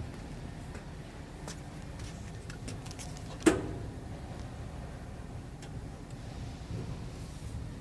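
Steady low rumble inside the cab of a 2008 Sterling HX9500 truck on the move, with scattered light clicks and rattles and one sharp knock about three and a half seconds in.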